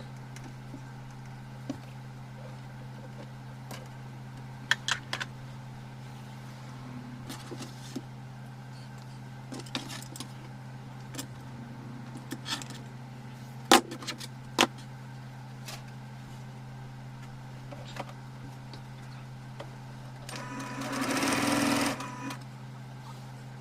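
Sewing machine running briefly for about two seconds near the end. Before that, scattered sharp clicks and taps over a steady low hum.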